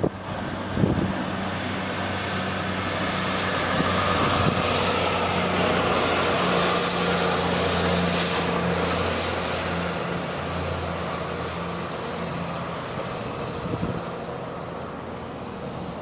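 City traffic: a large motor vehicle's low engine hum swells over several seconds and fades again, over a steady hiss of traffic and wind.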